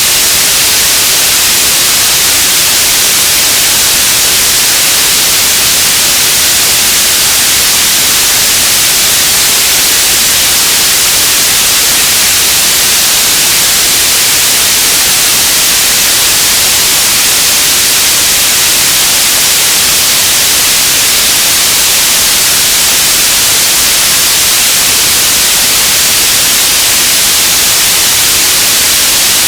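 Radio static: a loud, steady hiss of noise with no tones or breaks, brightest in the high treble.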